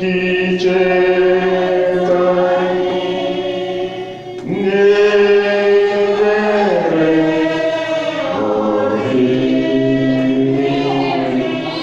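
Voices singing a slow hymn to Mary in long held notes, with a short break for breath about four seconds in.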